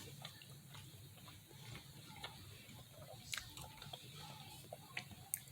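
Quiet chewing of a fried chicken patty close to the microphone: soft, scattered mouth clicks and smacks, with two sharper ticks about three and a half and five seconds in, over a faint low hum.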